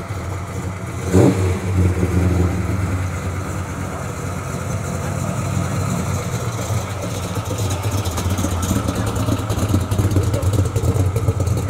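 A late-1960s Pontiac's engine idles with a low, steady rumble as the car pulls out and drives off. There is a sharp throttle blip about a second in.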